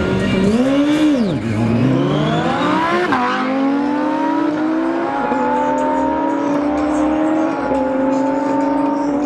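High-revving engine accelerating hard through the gears. Its pitch climbs and drops suddenly at each upshift, three times.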